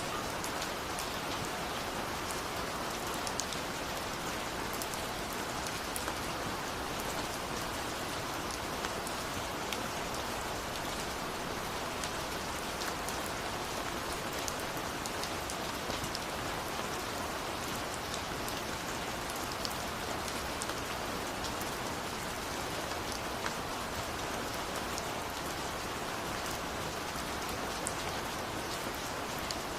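Steady rainfall, with many individual drops pattering on a surface over an even hiss of rain.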